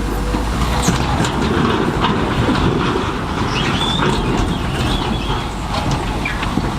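Crawler bulldozer working through stone: its diesel rumbles while the steel tracks clank and briefly squeal and rock grinds and knocks.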